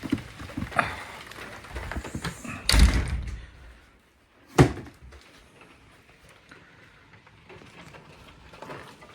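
A door being shut: a few knocks and rustles, then a heavy thud about three seconds in, and one sharp knock a couple of seconds later.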